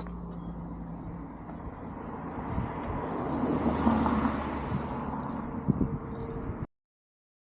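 Outdoor road ambience with a car going by, the noise swelling and fading in the middle, then a couple of light knocks. The sound cuts off abruptly near the end.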